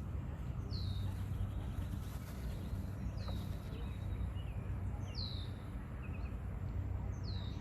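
A bird calling a short, high, down-slurred whistle four times, about every two seconds, over a steady low rumble.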